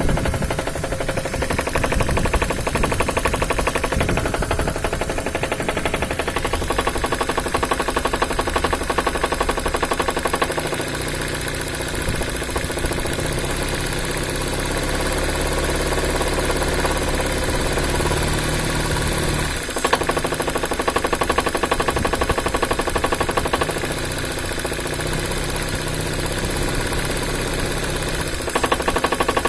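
Vehicle engine running with a rapid, continuous knocking. The engine's note changes twice, a steadier low hum coming in for several seconds each time while the knock carries on.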